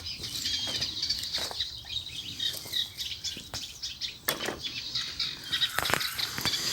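Birds singing in the background, broken by a few short, sharp rustling or splashing noises, the clearest about four and six seconds in.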